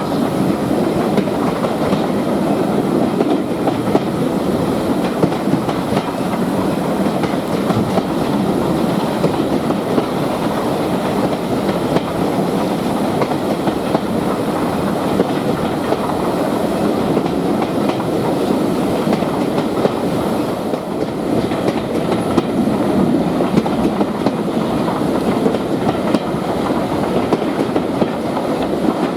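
Train running along the track: a steady rumble with the wheels clicking over the rail joints.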